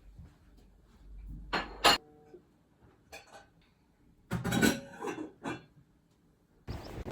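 A few sharp knocks and clatters of hard objects being handled, one followed by a brief ringing tone. Near the end it cuts to wind noise on the microphone.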